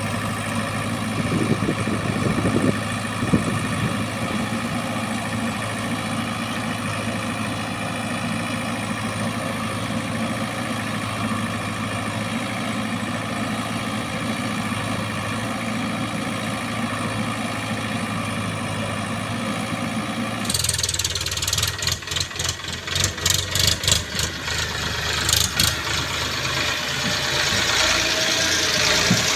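Diesel engine of heavy earthmoving machinery running steadily. About twenty seconds in, the sound changes abruptly to a harsher, fluttering noise that rises and falls quickly.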